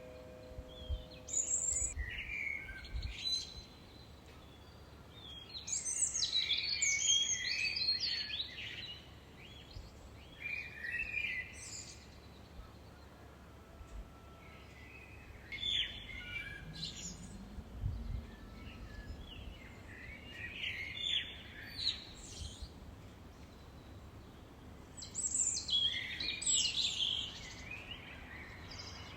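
Songbirds singing: warbling, chirping phrases of a few seconds each, repeating every three to five seconds over a quiet background.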